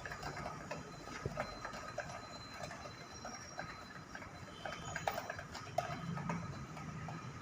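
A spoon clinking and tapping against a bowl and cups as thick cake batter is spooned into silicone muffin cups: irregular light clicks, several a second, over a faint low hum.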